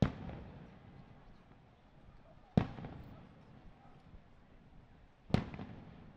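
Aerial firework shells bursting: three sharp bangs about two and a half seconds apart, each trailing off in a fading echo.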